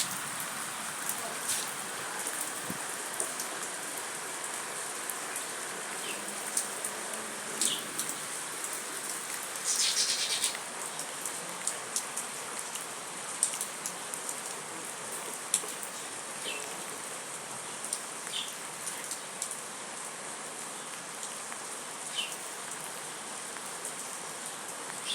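Steady rain falling, with scattered drops tapping close by and a brief louder burst of noise about ten seconds in.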